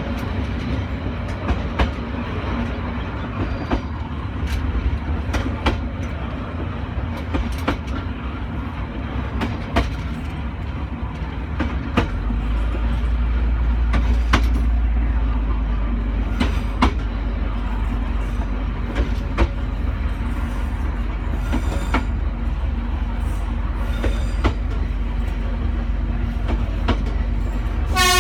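Passenger train on the Trai Mat–Dalat line running along the track: a steady low rumble with irregular sharp clicks of the wheels over rail joints. The rumble grows louder about halfway through.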